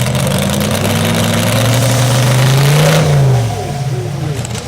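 Modified pulling tractor's engine at full throttle, climbing in pitch for about three seconds. Then the throttle is cut and the engine winds down.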